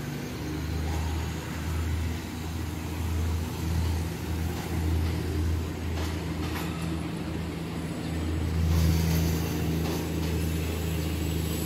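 Philippine National Railways diesel commuter train passing close by, its engine giving a low steady drone that pulses in strength and swells near the end.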